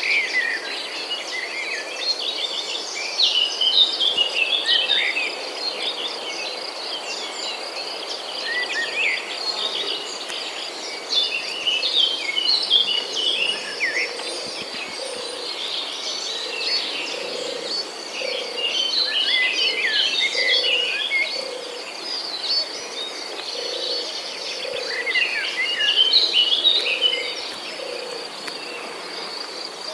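Several songbirds chirping and singing in bouts of quick rising and falling notes over a steady high insect drone.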